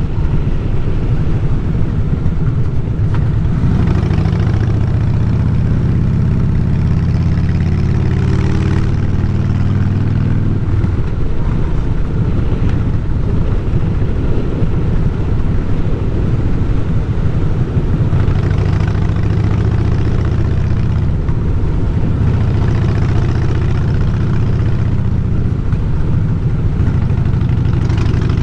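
Harley-Davidson Fat Boy's air-cooled V-twin engine running steadily while riding, its pitch rising and falling a little with the throttle.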